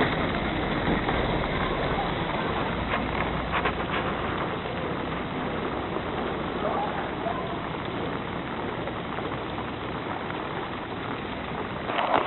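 Steady street ambience in the rain: an even rain hiss with a vehicle engine running low underneath, the engine fading out near the end, and faint voices now and then.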